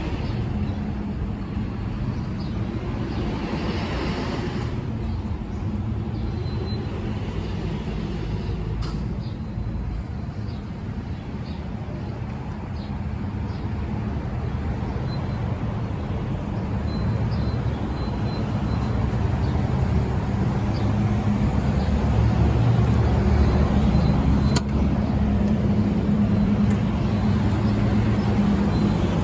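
Small pickup truck engine idling with a steady low hum, growing louder in the second half.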